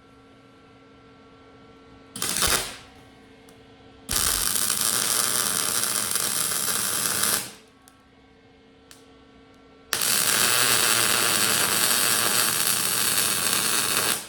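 Electric arc welding on steel: a brief half-second burst, then two steady weld runs of several seconds each, with the even frying crackle that he calls a "bacon sound", while a faint steady hum sits underneath.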